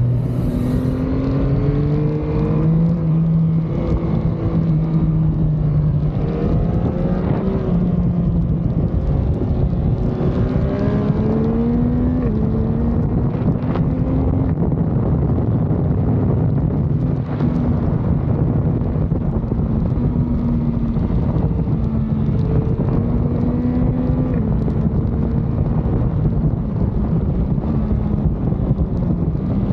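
Motorcycle engine under way, its pitch climbing and dropping repeatedly with throttle and gear changes, over a steady rush of wind.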